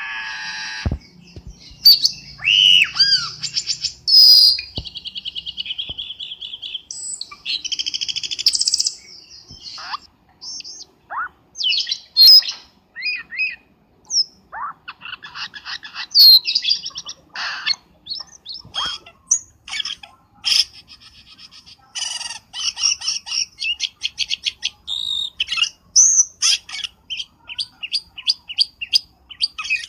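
Cucak keling birdsong used as a lure call: a busy, varied stream of whistles, chirps, glides and harsh notes. In the second half it turns into a fast run of short repeated notes, several a second.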